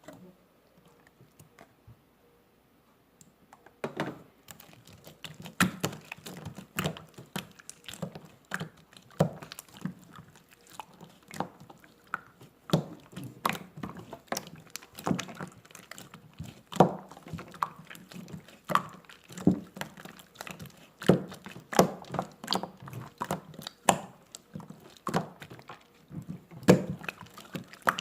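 Slime being squeezed and pressed by hand, giving irregular wet clicks and pops, one or two a second, starting about four seconds in.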